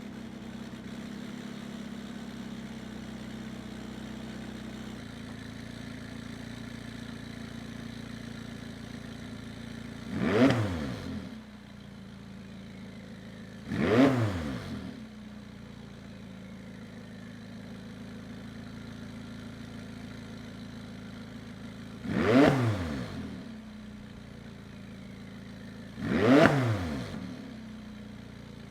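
McLaren 570S's twin-turbo V8 idling through its factory sport exhaust soon after a cold start, blipped four times. Each rev rises and falls in pitch over about a second: two close together in the middle, then two more after a pause.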